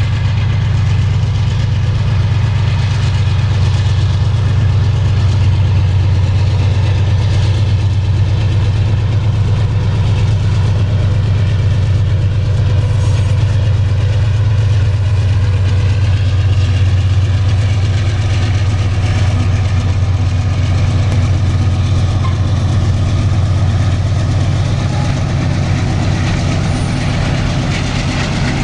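Diesel-electric freight locomotive engine running with a steady, loud low drone.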